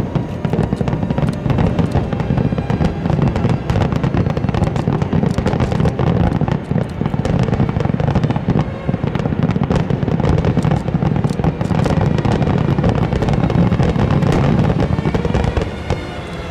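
Aerial fireworks going off in a dense, continuous barrage: rapid overlapping bangs and crackling over a steady low rumble, easing slightly near the end.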